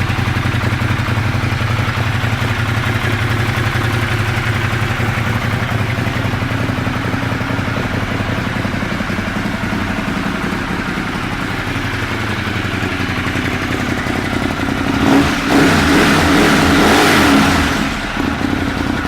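2014 Ducati Monster 1200's L-twin engine running through a full GPR exhaust system: idling steadily, then revved up and down a few times from about fifteen seconds in.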